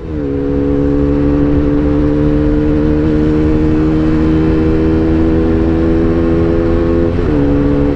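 Bajaj NS200's single-cylinder engine through an Akrapovic full-system exhaust, held at high revs at top speed with a steady, nearly constant exhaust note. About seven seconds in the pitch drops, then holds steady again.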